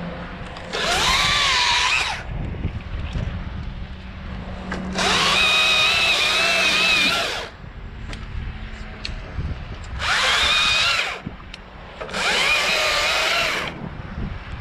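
Battery-powered top-handle chainsaw (Stihl MSA 161 T) making four short cuts through fir branches, the motor's whine dipping and recovering under load. Wind rumbles on the microphone between the cuts.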